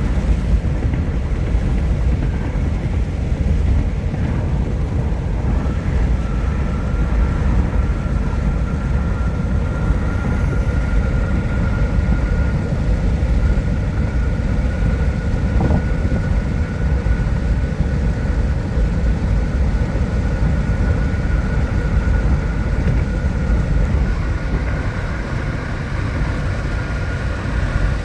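Car driving along a road, a steady low rumble of road and engine noise heard from inside the cabin, with a thin steady whine from about six seconds in.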